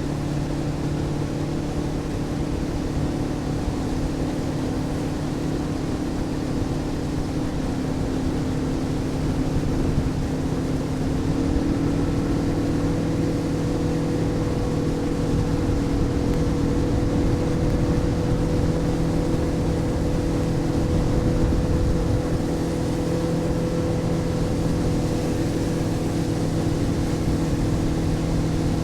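Motorboat engine running at speed, with its pitch stepping up slightly about eleven seconds in as the boat speeds up, over a steady rushing noise.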